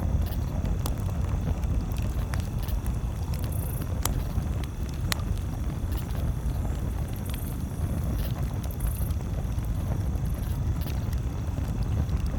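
Campfire crackling: scattered sharp pops and snaps, a few every couple of seconds, over a steady low rumble.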